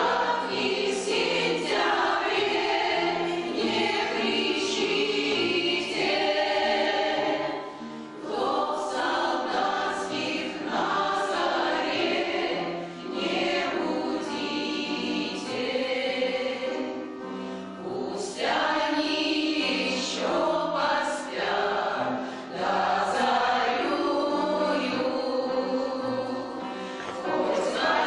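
A choir singing a song in several held phrases, with instrumental accompaniment underneath, pausing briefly for breath between phrases.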